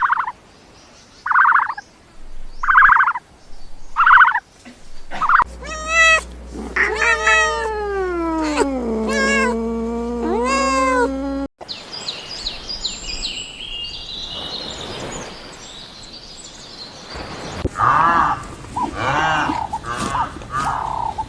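Domestic cats meowing in several spliced clips: a string of short calls about a second and a half apart, then one long drawn-out yowl that slides down in pitch, and more meows near the end.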